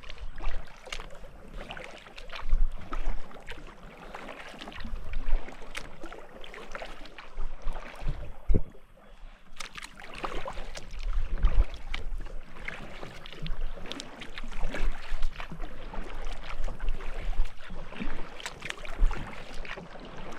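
Kayak paddle dipping into river water, giving irregular splashes and drips every second or two, with low rumbles on the microphone.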